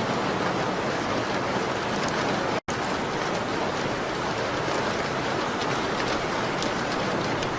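Steady rain on a window, an even hiss with faint scattered ticks of drops. The sound cuts out completely for an instant about two and a half seconds in.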